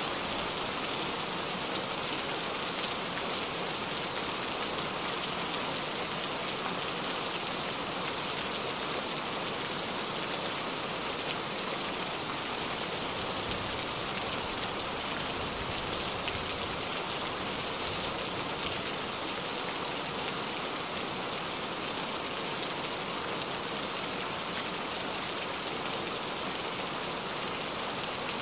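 Steady rain falling, an even hiss with no breaks or single loud events.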